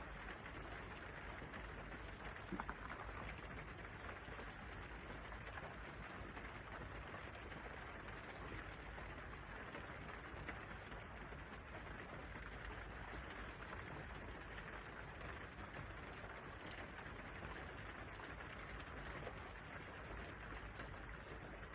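Steady rain falling, a faint even hiss, with a small knock a few seconds in.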